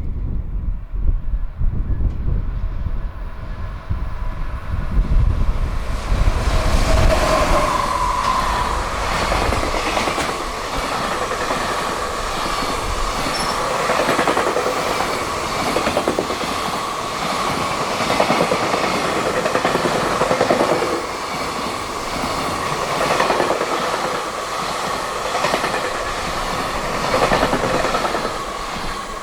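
JR Freight EF210 electric locomotive hauling a long freight train past at high speed. A deep rumble comes first as it arrives. Then the wagons rush by with a rhythmic clacking of wheels over the rail joints and a held high tone, and the sound falls away near the end as the train clears.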